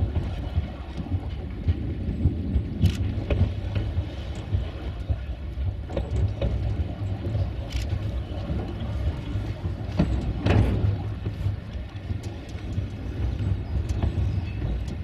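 Narrow-gauge train rolling slowly over snowy track: a steady low rumble with scattered sharp clicks and knocks from the wheels and rail joints, the clearest about 3, 8 and 10 seconds in.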